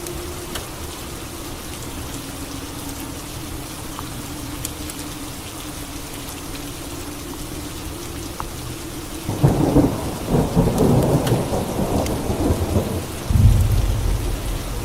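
Steady rain, broken about nine seconds in by a sudden loud crackling thunderclap, which gives way near the end to a deep rolling rumble of thunder.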